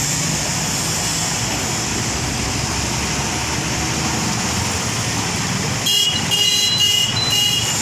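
Steady motor-vehicle and road noise, with a louder, high-pitched squealing tone about six seconds in that lasts about a second and a half.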